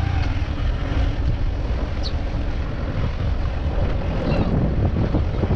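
Wind buffeting the microphone of a moving motorcycle, with engine and road noise underneath.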